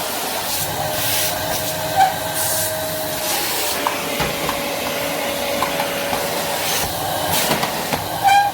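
Rowenta RO3950 bagged vacuum cleaner running steadily, a constant rushing noise with a thin steady whine, while the hiss swells and fades over and over as the nozzle works.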